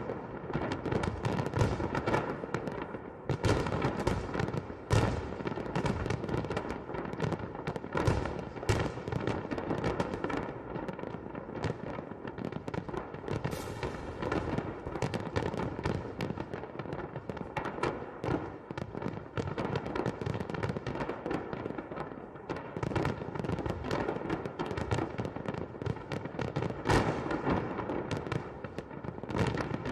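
Festive fireworks salute going off continuously: a dense run of bangs and crackles, several a second, with louder reports scattered throughout.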